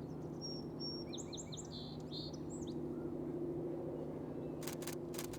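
A songbird sings one short phrase: a thin steady high whistle, then a quick run of sweeping notes. A steady low hum runs underneath, and near the end comes a quick run of sharp clicks.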